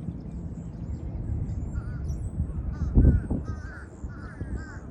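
Birds calling outdoors, crow caws among them, with short chirps repeating over a steady low rumble. A louder low bump comes about three seconds in.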